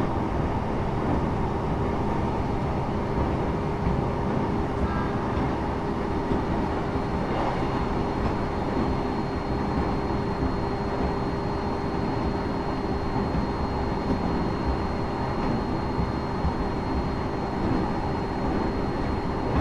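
Interior of a Japanese train running between stations: a steady rumble of wheels and running gear on the rails, with a constant hum and a faint high whine.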